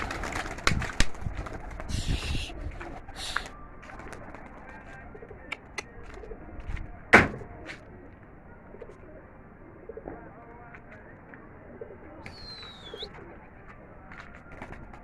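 Domestic pigeons cooing, with scattered clicks and knocks and one sharp crack about seven seconds in.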